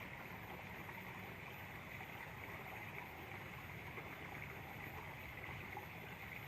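Garengpung cicadas buzzing: a faint, steady, high-pitched drone that holds level without a break.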